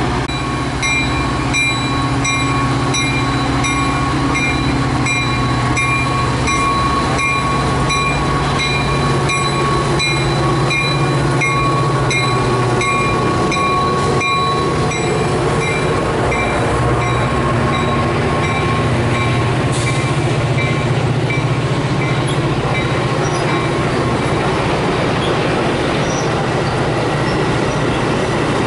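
A train running past on the rails with a steady rumble, a steady high-pitched whine above it fading about halfway through. Over it a grade-crossing bell rings about one and a half times a second, dying away a few seconds before the end.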